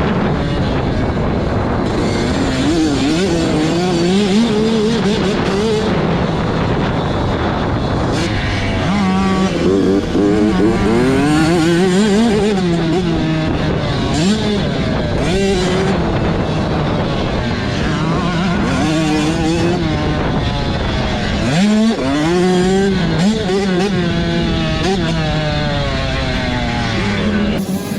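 Dirt bike engine running hard, its pitch climbing and dropping again and again as it revs through the gears.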